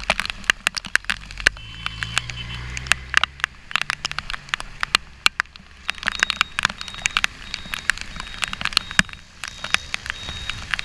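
Rain striking the GoPro's waterproof housing in dense, irregular sharp ticks and pops while riding through the rain. A low engine and road rumble sits underneath for the first few seconds, then fades.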